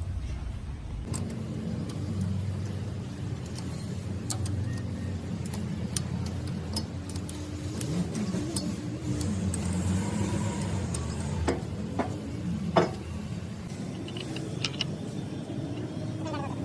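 An engine running steadily with a low hum, with scattered sharp metallic clicks and taps through it.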